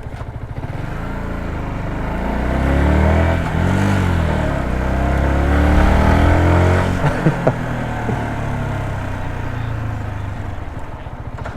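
Yamaha MT-125's small single-cylinder four-stroke engine accelerating under a test ride: the pitch climbs, dips at a gear change about four seconds in, then climbs again before the throttle eases off near seven seconds, with a couple of sharp clicks. The engine then runs on more steadily.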